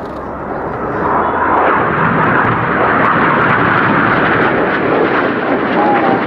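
Jet noise from the Red Arrows' BAE Hawk T1 jets flying past, growing louder about a second in and then holding steady.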